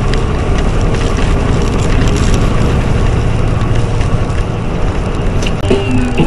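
Steady engine and road noise of a truck driving, heard inside the cab.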